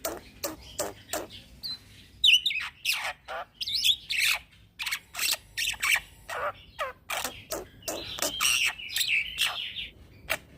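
Young black-winged myna (jalak putih) singing without pause: a fast string of sharp clicking and chattering notes mixed with whistled glides, and a harsh buzzy phrase about eight seconds in.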